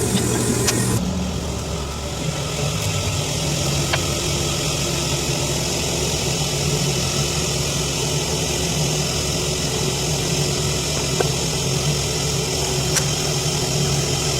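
A machine running steadily: a low hum under a constant hiss, with a change in tone about a second in.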